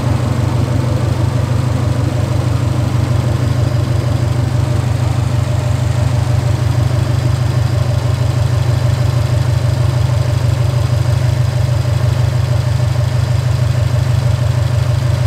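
A car engine idling steadily: a low, evenly pulsing exhaust note with no revving.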